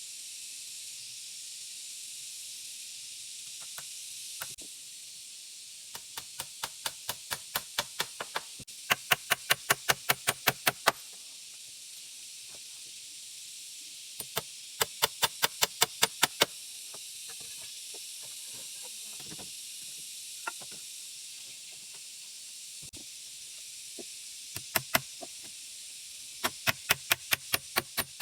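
Runs of rapid, evenly spaced knocks, about five or six a second, each run lasting two to three seconds, over a steady high hiss.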